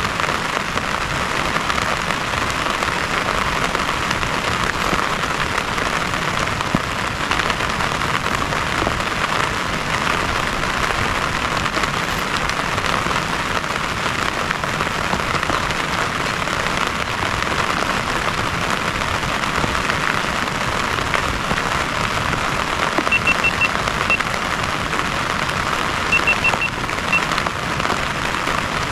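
Heavy rain falling steadily. Near the end, two short runs of quick, high chirps cut through it.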